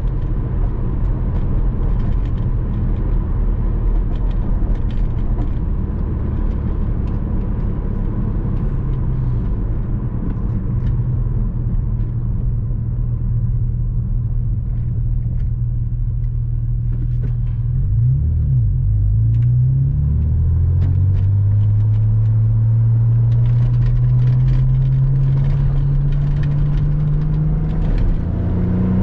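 Porsche Boxster 986 flat-six engine driving at a steady pitch, then about two-thirds of the way through the revs dip and pick up again, as in a gear change, and climb steadily under acceleration. Near the end the revs drop and start rising again.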